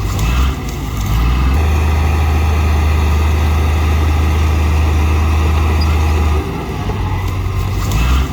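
Bulldozer diesel engine running with a steady deep rumble and machine noise above it. The level jumps abruptly a few times, about half a second in, near 1.5 s and past 6 s.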